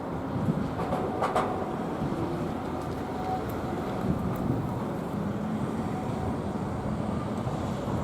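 Fukui Railway street tram running on its track: a steady rumble with a couple of sharp clicks about a second in.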